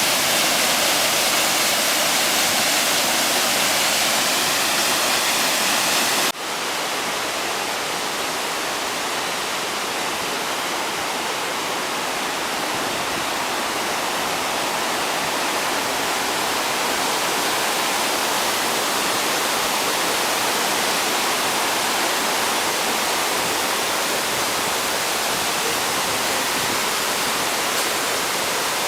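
Ryūzu Falls, a cascading waterfall, with water rushing steadily over rock. About six seconds in the sound drops a little and turns duller at a cut, then runs on steadily.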